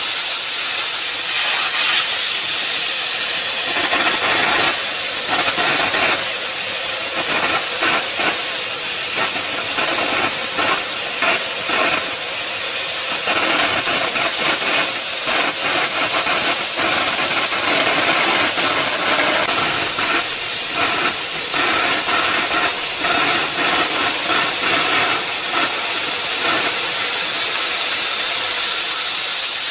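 The oxy-fuel cutting torch of a CG1-30 track-type gas cutting machine, burning with a steady, loud hiss that flickers unevenly as it cuts.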